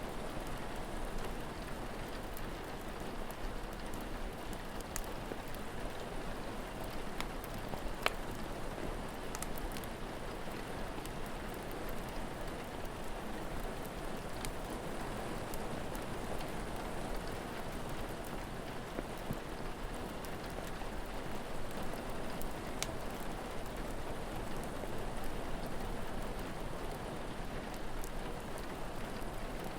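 Steady rain falling, with a few scattered sharp pops from a crackling wood fire, the loudest about eight seconds in.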